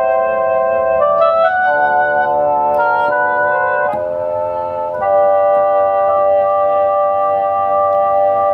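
Yamaha CK61 stage keyboard playing sustained chords on a wind-instrument voice. The chords change several times in the first half, and the last one is held for a few seconds before it cuts off sharply at the end.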